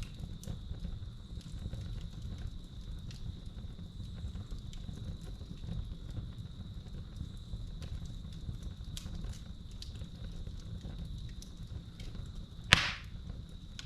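Wood fire crackling in a fireplace, with scattered small snaps and one loud pop near the end, over a steady high-pitched cricket trill.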